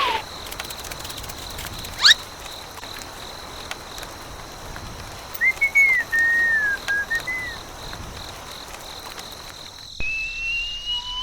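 Whistle sounds: a quick upward whistle about two seconds in, a wavering whistled phrase in the middle, and a slow rising slide-whistle tone after a cut near the end, over a faint steady high tone.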